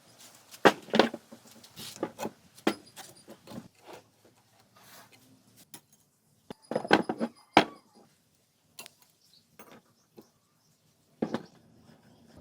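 Metal parts and hand tools clinking and knocking in irregular clusters, a few strikes ringing briefly, as of parts being handled on a workbench.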